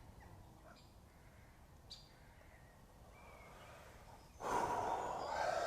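Faint outdoor background with a few brief bird chirps and a single sharp tick about two seconds in. About four and a half seconds in, a much louder hissing, rustling sound starts and carries on.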